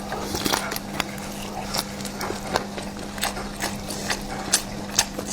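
Crunchy chewing of a crisp-skinned roasted sausage: irregular sharp crunches and clicks, about two or three a second, over a steady low hum.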